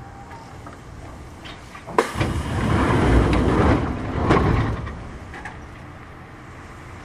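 Kintetsu 1000 series electric train heard from on board: a sharp clack about two seconds in, then some three seconds of loud rumbling and rattling with a second clack midway, before it settles back to a steady low running rumble.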